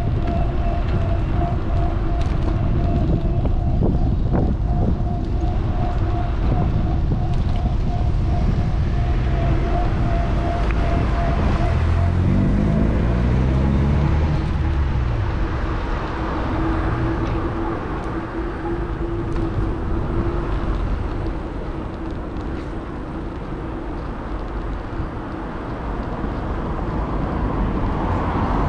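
Wind rumbling on an action camera's microphone while riding a bike alongside road traffic, with a steady hum and a vehicle engine passing about halfway through. The wind rumble eases after about fifteen seconds.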